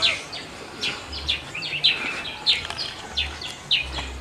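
Birds chirping over and over in short, quick chirps that fall in pitch, about three a second. There is a single sharp click at the very start.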